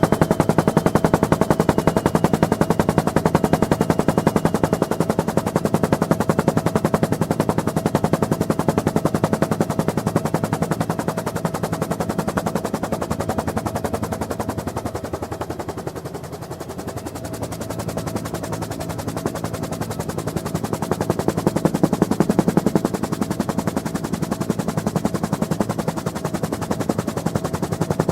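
Heard from on board a UH-1N Twin Huey helicopter: the two-bladed main rotor's rapid, steady blade chop over the whine of its twin turboshaft engines. The chop fades about halfway through, then grows loud again.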